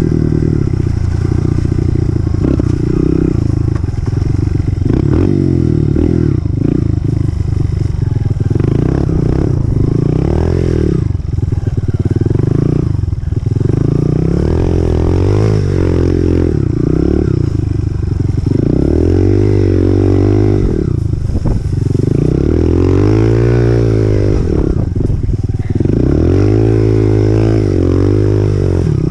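2018 Honda CRF125F dirt bike's single-cylinder four-stroke engine being ridden, its pitch rising and falling again and again as the throttle is opened and closed through the gears.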